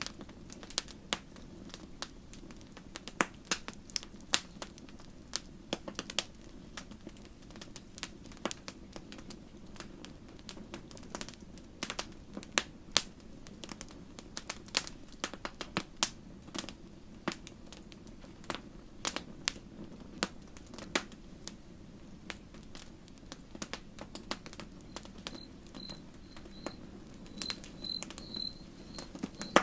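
Wood campfire crackling: irregular sharp pops and snaps over a steady low hiss of burning wood. Near the end an insect starts chirping at a high steady pitch, a few chirps a second.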